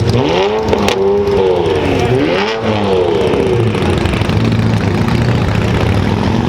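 Car engine revved up and down several times, about once a second, then running on at a steady pitch.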